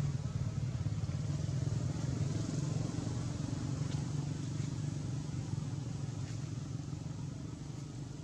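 A motor vehicle engine running steadily as a low hum, easing off slightly near the end.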